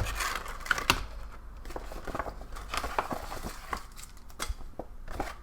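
Thick plastic brown MRE bag crinkling and rustling as it is handled and opened, with irregular sharp crackles.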